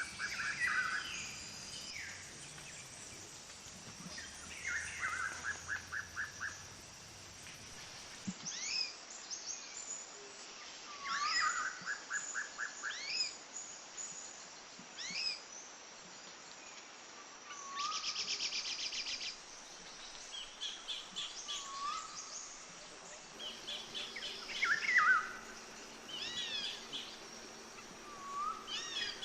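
Birds calling and singing in a string of separate phrases: quick trills of repeated notes, sharp down-slurred whistles and, once, a short buzzy rattle, over a faint steady background hiss.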